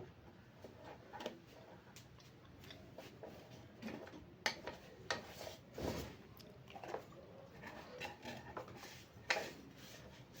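Cleaning an industrial sewing machine's oil sump by hand: rubbing and scraping, with irregular light clicks and knocks as the sump is handled.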